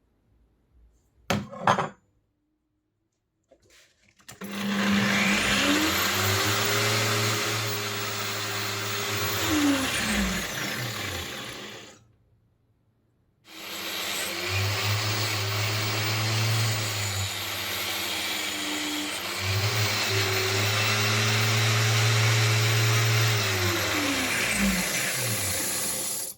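An electric power tool motor runs in two long stretches, spinning up in pitch at each start and winding down at each end, with a brief slow-down and pick-up midway through the second. Two sharp knocks come just before it.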